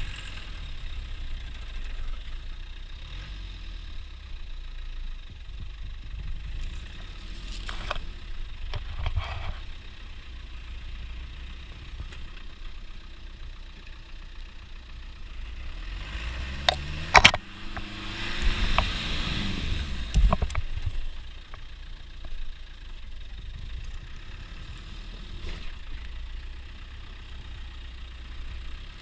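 Land Rover Defender 90 engine running at low revs while driving off-road, with a few clunks about eight seconds in. A sharp loud bang comes just past halfway, followed by the engine revving up and down for a few seconds.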